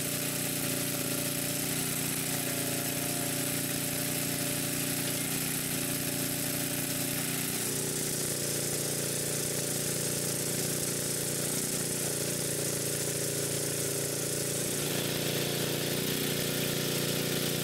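Small excavator's engine running steadily while it digs, its tone shifting slightly about seven seconds in and again near fifteen seconds as the load changes.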